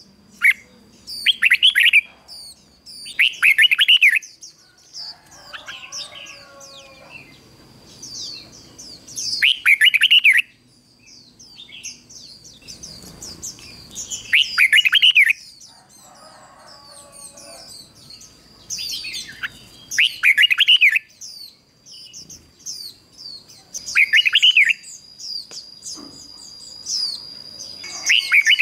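Red-whiskered bulbul decoy singing: short, loud warbled phrases repeated every few seconds, with thin high chirps between them. A softer, lower call comes in twice.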